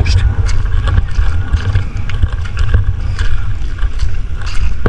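Heavy wind buffeting the microphone: a loud, uneven low rumble, with a few faint clicks over it.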